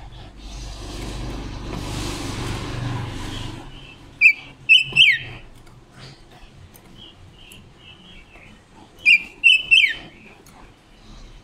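Silver-eared mesia giving short, sharp, falling call notes in two quick groups, about four seconds in and again about nine seconds in, with softer chirps between. Over the first few seconds a broad rushing noise with a low rumble is louder than the bird.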